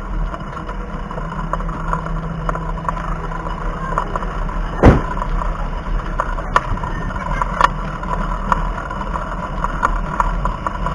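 Bicycle riding noise picked up by a chest-mounted action camera: steady wind and road rumble with scattered small clicks and rattles, and one loud knock about five seconds in.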